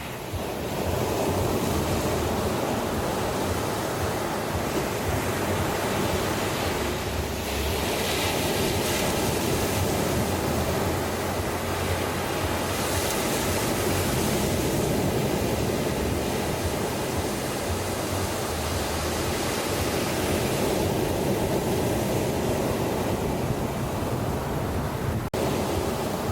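Sea waves breaking on a beach, a steady rushing surf that swells now and then, with a short click near the end.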